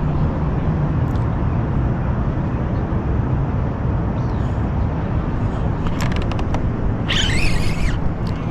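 Steady low motor hum under a rushing noise, with a few sharp clicks about six seconds in.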